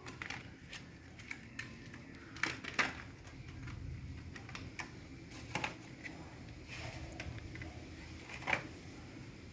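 Irregular light clicks and taps of hard plastic and metal computer parts being handled and fitted, with the sharpest clicks a little under 3 s in and near the end.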